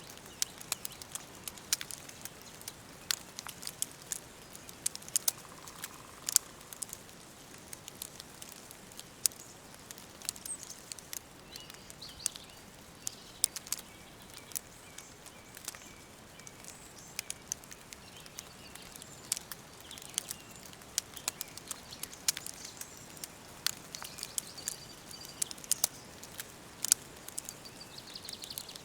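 Wood fire crackling, with irregular sharp pops several times a second, and faint short bird calls now and then.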